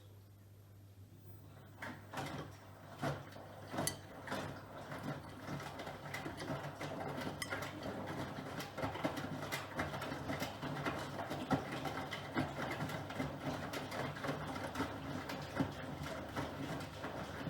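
Miele Professional PW6065 Plus washing machine running over a steady low hum. About two seconds in, the drum begins to turn, and the tumbling laundry makes irregular knocks and clatter that grow denser and more even.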